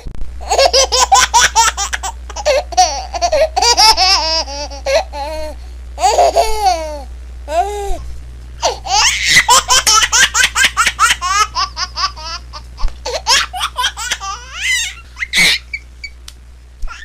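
A baby laughing hard in repeated bouts of quick, high-pitched giggles and squeals, with short breaths between them.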